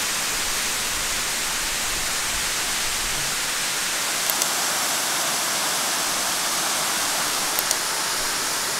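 Waterfall's steady rushing water. Two brief pairs of faint high ticks come about four seconds in and again near the end.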